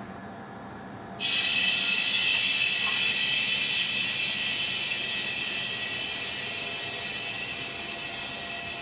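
A hiss starts suddenly about a second in and fades slowly.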